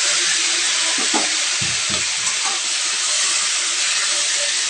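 Potatoes, cauliflower and just-added green peas sizzling in hot oil in a metal kadhai while being stirred with a slotted spoon. A few dull knocks come about one to two seconds in.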